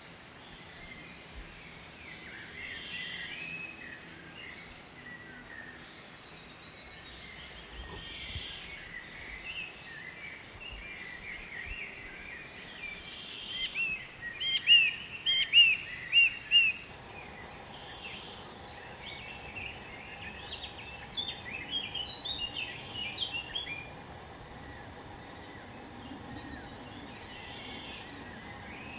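Songbirds chirping and singing, with a run of loud, quick chirps about halfway through and another burst of chirping a few seconds later.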